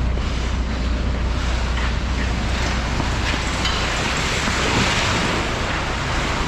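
Wind noise on the microphone over a steady low rumble, swelling about two-thirds of the way through.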